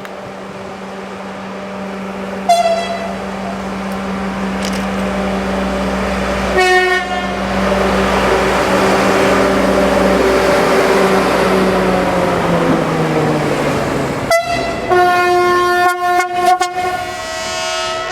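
A railway locomotive passing along the track. Its steady running drone drops in pitch as it goes by, under a rush of noise. It sounds its horn or whistle in short blasts, then in a series of toots near the end.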